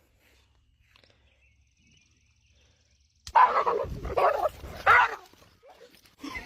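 Near silence for about three seconds, then an animal calling out loudly several times in short bursts.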